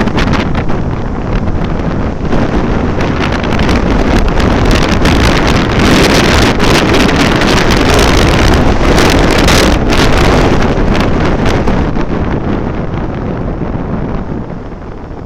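Heavy wind buffeting on the microphone of a moving vehicle, with road and engine noise underneath. The noise eases off over the last few seconds.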